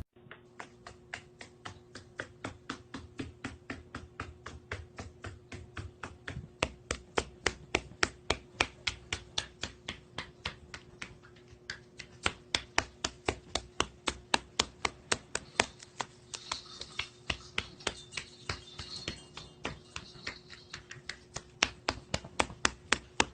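A long run of sharp, evenly spaced clicks, about four a second, growing louder and softer in stretches, over a faint steady hum.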